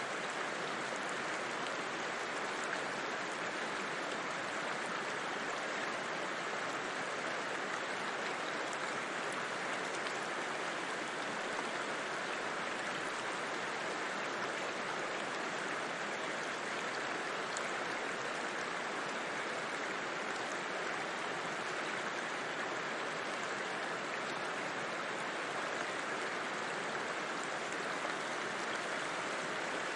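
River water flowing steadily over rocks, a constant even rush with no change.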